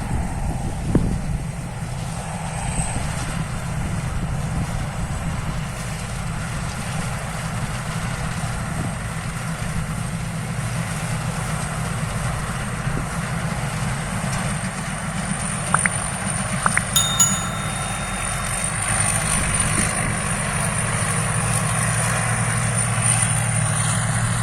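Rice combine harvester running steadily with its engine under way, with a few short sharp clicks about two-thirds of the way through.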